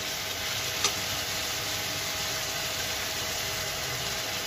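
Keema (minced meat with tomatoes) frying in a pan, a steady sizzling hiss, with one light clink of the spoon against the pan about a second in.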